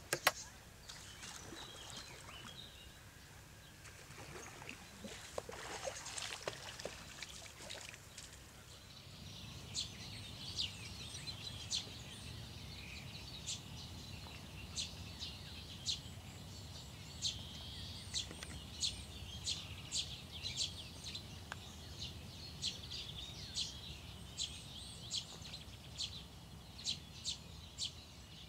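Birds chirping in short, sharp calls, about one or two a second, over a low, steady outdoor rumble. Faint voices are heard in the first few seconds before the chirping starts.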